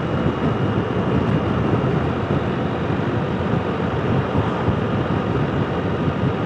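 Motorcycle riding steadily at about 50 mph: an even rush of wind and road noise with the engine running underneath.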